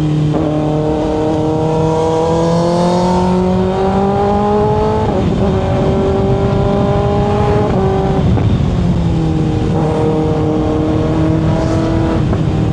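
Kawasaki ZX-6R's inline-four engine under way, its pitch climbing steadily, breaking at shifts about five seconds and about eight seconds in, then falling off and holding level. A low wind rumble runs underneath.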